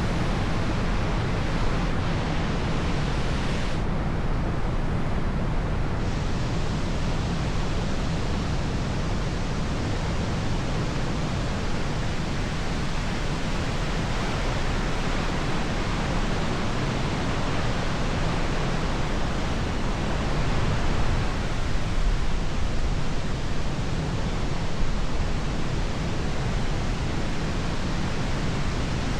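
Steady rush of wind and road noise on the microphone of a camera mounted on a moving motorcycle, even and unbroken with no clear engine note.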